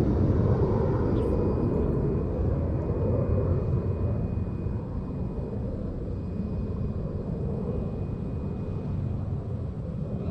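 Low rumble of a distant engine, slowly fading away, with a faint steady high tone from about a second in.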